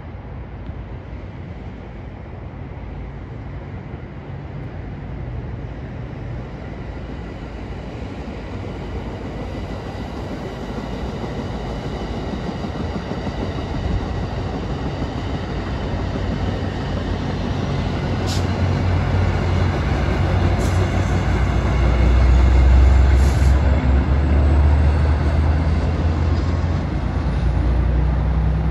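Amtrak passenger train passing by, its deep rumble and wheel-on-rail noise growing steadily louder until it is loudest about 22 to 25 seconds in. A few sharp clicks come through as it goes by.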